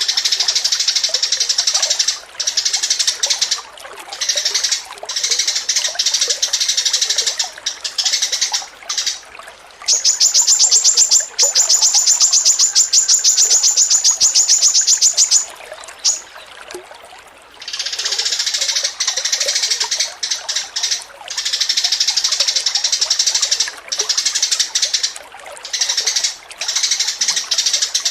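Songbirds singing a loud, dense, chattering song of high notes, the kind of masteran recording used to train contest songbirds. Near the middle, one bird gives a fast, even trill of high notes lasting about five seconds.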